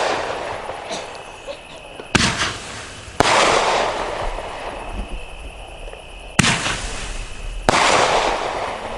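A 500-gram fan-shaped firework cake firing four shots in two pairs. Each shot is a sharp report followed by a hissing tail that fades over a second or so.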